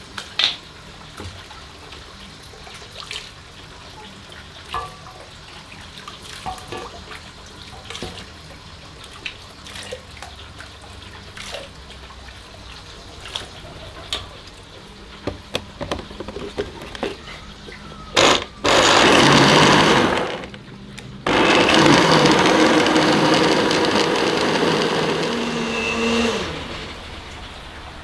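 Light kitchen knocks and clicks, then an electric blender runs twice: briefly about two-thirds of the way in, then for about five seconds, its motor pitch dropping as it winds down near the end.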